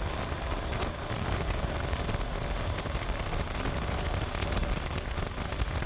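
Steady wind rush buffeting the microphone of a moving motorcycle, a rumbling hiss with road and engine rumble underneath.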